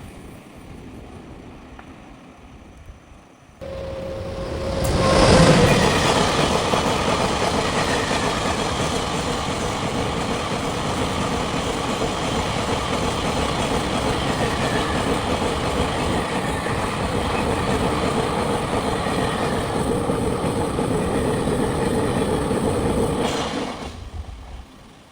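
A train running past close by: a dense, steady rush of wheels on rail with a held tone through it. It starts abruptly a few seconds in, is loudest just after it starts, and falls away shortly before the end.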